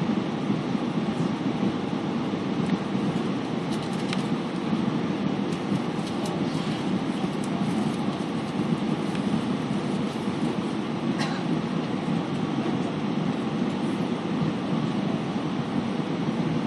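Steady cabin noise of an Airbus A320 in flight on approach: an even rush of engines and airflow heard from inside the passenger cabin, with a couple of faint clicks.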